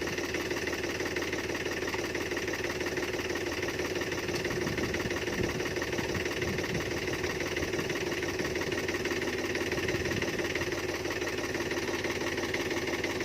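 Farm engine running steadily at a constant speed, with no revving or change in pitch.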